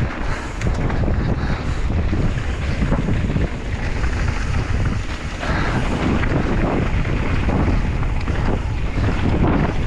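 Wind buffeting the microphone: a loud, steady rush with a deep rumble.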